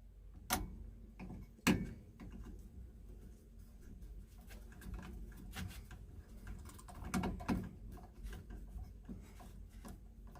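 Small clicks and handling noises of hands and tools working on the wiring of a well pressure switch, with two sharper clicks in the first two seconds and scattered lighter ones after, over a faint low hum.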